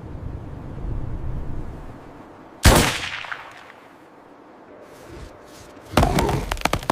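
A low rumble, then a single loud, sharp bang that rings out for about a second, like a gunshot. A quick cluster of cracks follows near the end.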